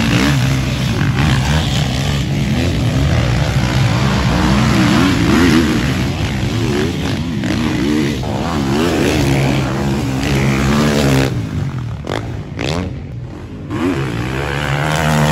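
Motocross motorcycles racing, their engines revving up and down over and over through gear changes and throttle. The engine sound drops away about twelve seconds in, then an engine revs up again near the end.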